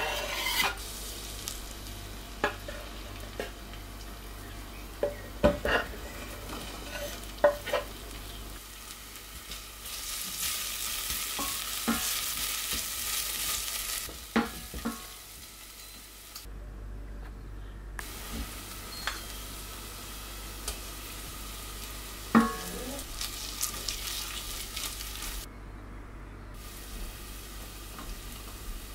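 Grated garlic, ginger and spring onion sizzling in sesame oil in a stainless steel pot, stirred with a wooden spatula that knocks against the pot several times, the sharpest knock at the very start. The sizzle swells for a few seconds about halfway through.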